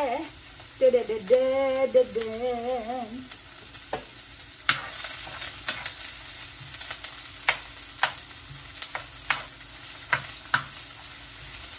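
Chopped onions sizzling in hot oil in a frying pan as they are sauteed and stirred, with a utensil clicking against the pan again and again; the sizzle grows louder about halfway through. In the first few seconds a person hums a short wavering tune.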